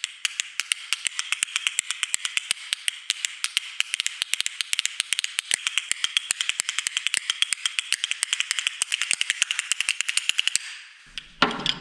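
Bones, a pair of percussion slats, clicking against each other in a rapid, rattling rhythm, stopping about ten and a half seconds in.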